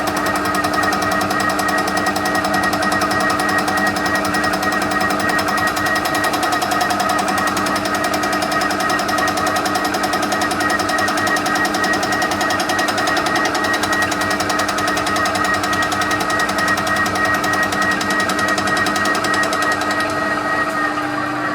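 TOS milling machine flycutting the face of a hard cast-steel exhaust manifold. The cutter makes a fast, steady chatter as it strikes the steel each turn, over the steady whine of the mill's spindle drive. About twenty seconds in, the chatter dies away as the cut runs off the work, while the spindle keeps running.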